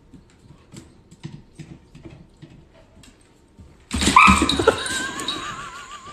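Faint scattered taps and clicks, then about four seconds in a dog's high whining cry starts suddenly and wavers up and down in pitch.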